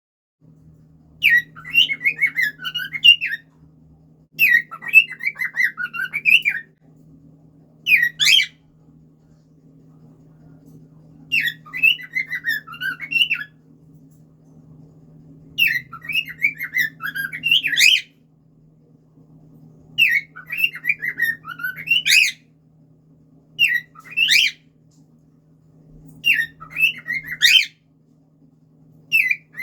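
Cockatiel singing: short bursts of warbling whistled phrases every few seconds, several ending in a sharp rising note. A faint steady low hum runs underneath.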